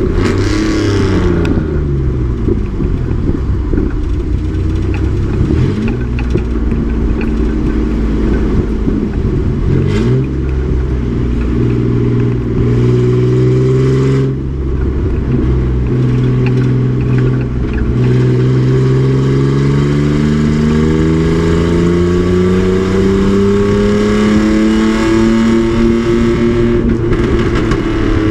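Race truck's engine running hard on track, its revs falling and rising through the gears, with a long steady climb in revs over about ten seconds near the end before easing off.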